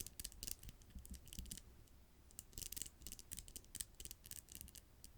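Fingernails tapping and scratching: faint, quick clicks in uneven clusters, with a short lull about two seconds in.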